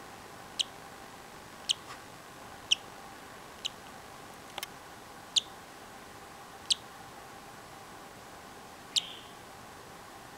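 Hatching cockatiel chick peeping from its opened egg: seven short, high peeps, each dropping in pitch, spaced irregularly about a second apart, with one faint click about halfway through.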